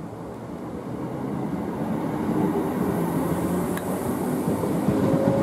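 Multiple-unit passenger train moving past close by along the platform, its running rumble and motor hum growing steadily louder, with one sharp click a little under four seconds in.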